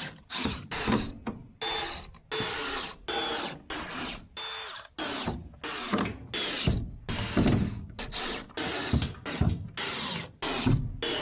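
Construction work on a wooden frame: a hand or power tool worked in a string of short, irregular mechanical strokes, about one to two a second.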